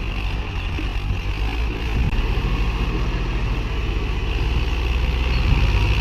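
Heavy diesel engine running steadily under load, its low drone growing stronger from about two seconds in.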